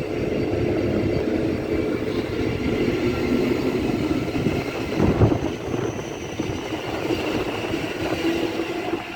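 Class 717 electric multiple unit pulling out of the platform: a steady hum of motors and wheels on the rails, with a single knock about five seconds in.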